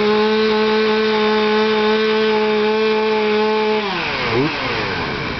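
Two-stroke chainsaw held at full throttle at a steady high pitch, then letting off so the engine note falls away toward idle, with one quick blip of the throttle near the end.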